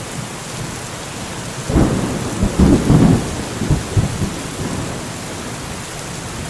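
Steady heavy rain hissing, with a rolling rumble of thunder about two seconds in that swells and fades over a couple of seconds.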